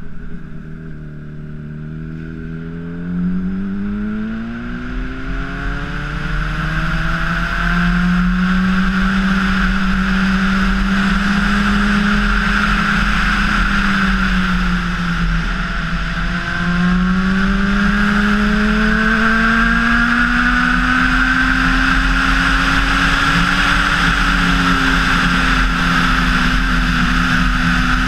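Honda CBR600RR's inline-four engine under way, its pitch climbing through the revs for several seconds, dipping about halfway through, then rising slowly again. A rushing noise builds with it as speed picks up.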